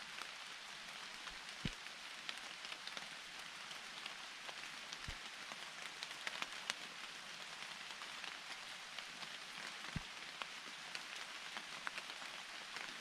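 Steady rain falling in a forest, a constant hiss with many sharp drop ticks and a few low thuds.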